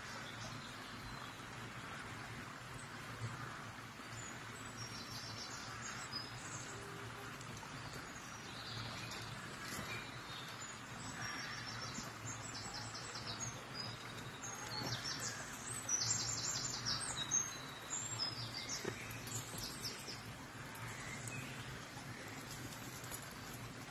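Woodland birds singing: short, high, rapid trills and chirps repeating, the loudest a little past halfway, over a steady low background hum.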